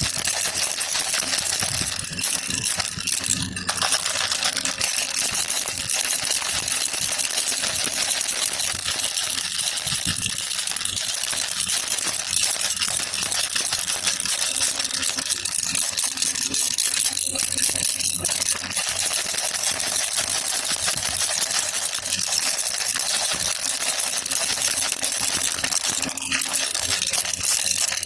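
Baby rattle (jhunjhuna) shaken continuously, a dense, unbroken rattling of small beads or pellets inside it.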